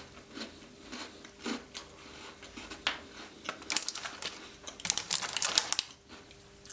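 Close-up crunching of a Tim Tam chocolate biscuit being chewed, a quiet crackle at first, then two dense runs of crisp crunches about halfway through.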